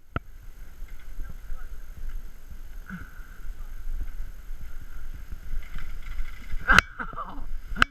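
Mountain bike rolling over a rough trail: a steady low rumble of wind on the microphone and tyres, with scattered rattles and knocks, and one sharp knock near the end.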